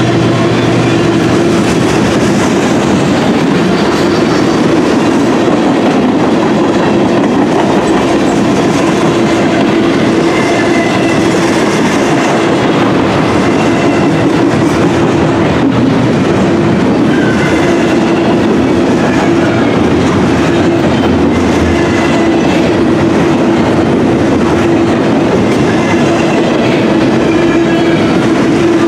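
Freight train cars rolling past close by: steel wheels clicking over the rail joints over a loud, steady rumble, with now and then a faint high wheel squeal. The cars change from tank cars and boxcars to double-stack container well cars.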